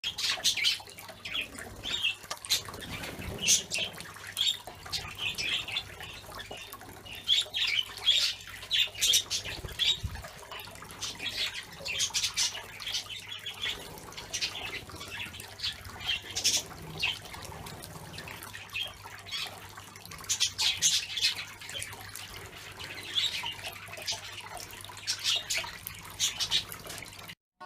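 A flock of budgerigars chattering and chirping in an aviary: many short, high calls overlapping without pause.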